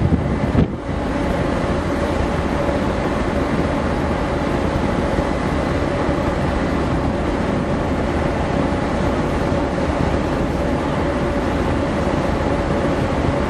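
Steady drone of the Delft Seaways ferry's engines and machinery, an even hum with a constant low tone. Gusts of wind buffet the microphone for about the first second, then stop.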